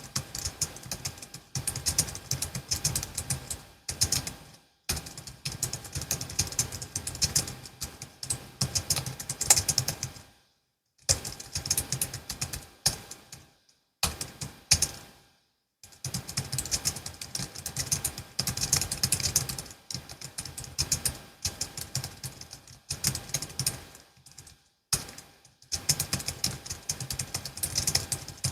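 Fast typing on a Logitech MX Keys S low-profile scissor-switch keyboard: rapid, crisp key clicks in bursts, with brief pauses between runs.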